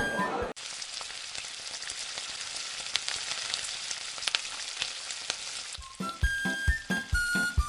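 Food frying in a pan, a steady sizzling hiss with scattered crackles, that cuts in about half a second in and stops abruptly near six seconds, between stretches of music.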